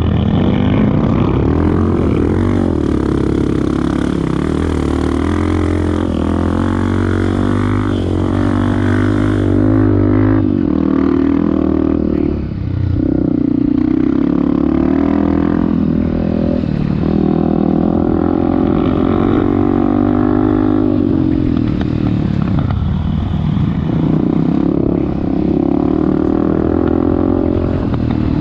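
Off-road vehicle's engine running hard, its pitch rising and falling as it is revved up and down, with a brief drop in revs about twelve seconds in.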